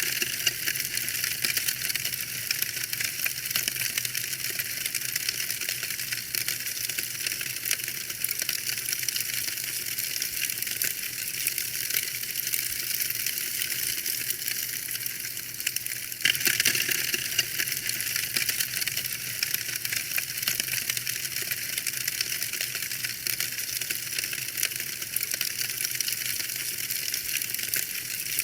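Wood fire in a fireplace crackling steadily: dense, irregular pops and snaps over a soft hiss, briefly louder about sixteen seconds in.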